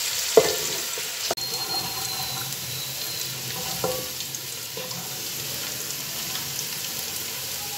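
Sliced onions sizzling in hot oil in a metal pot, a steady hiss, while a wooden spoon stirs them and knocks against the pot a few times.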